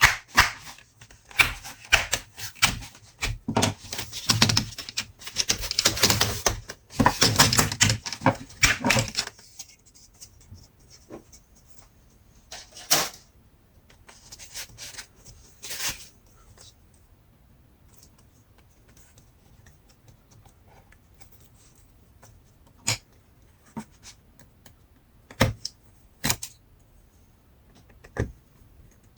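Laptop parts being handled and pried apart: a fast run of clicks and scraping for about the first nine seconds, then scattered single clicks.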